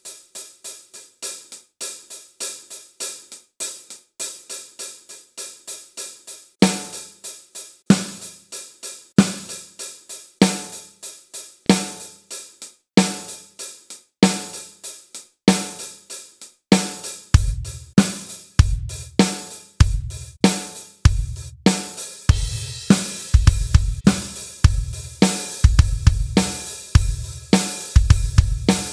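Drum kit groove played in eighth notes on the hi-hat. Snare backbeats on 2 and 4 join about seven seconds in, placed laid back, slightly late behind the beat, and bass drum joins about seventeen seconds in, the groove building fuller toward the end.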